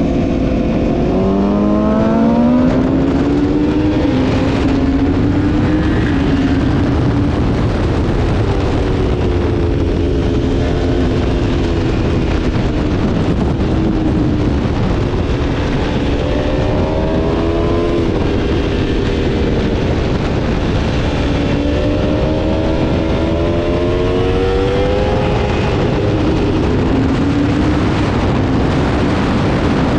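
Aprilia Tuono V4 motorcycle's V4 engine at full speed on a race track, its pitch climbing hard under acceleration and dropping back again and again through the lap, over a constant rush of noise.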